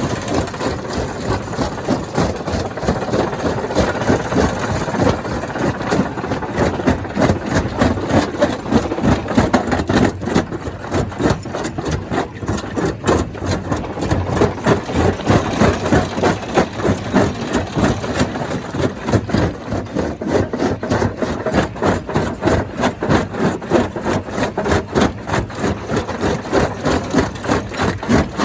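Stone crusher machinery running steadily, with a fast, even pulsing of about four to five beats a second.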